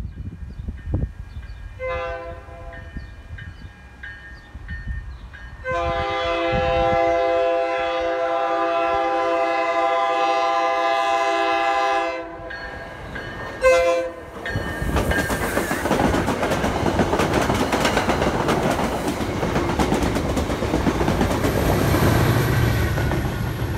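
EMD F40PH-2C diesel locomotive on an MBTA commuter train sounding its multi-tone air horn as it approaches: a fainter blast, a long loud blast, then a short toot. It then passes through the station at speed, a loud rumble with wheel clatter on the rails.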